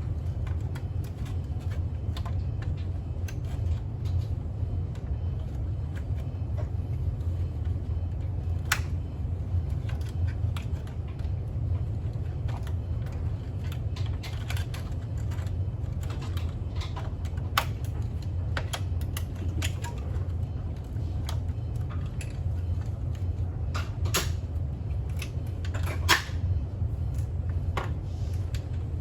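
Scattered light clicks and taps of small parts and tools being handled over a steady low hum. A few sharper clicks stand out about nine seconds in, near the middle and twice near the end.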